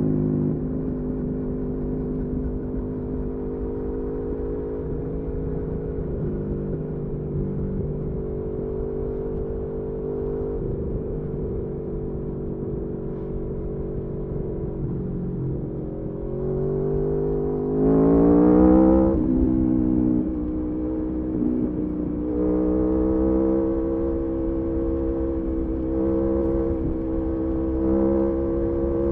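Aprilia Tuono V4 motorcycle engine running at steady revs, then revving up with a rising pitch about 16 seconds in. The revs drop sharply just after 19 seconds, and the engine settles into a steady, slightly higher note.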